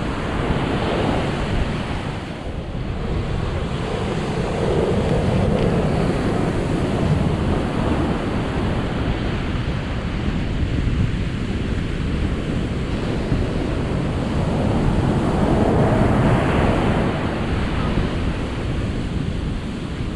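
Ocean surf: a steady rush of waves that swells and ebbs, with two slow surges about ten seconds apart.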